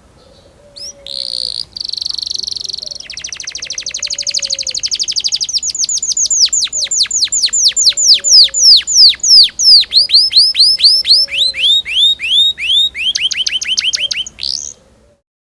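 Domestic canary singing one long song. A buzzy trill starts about a second in and turns into a fast rolling trill. That gives way to a long run of quick descending whistled notes, which slow toward the end before the song stops abruptly.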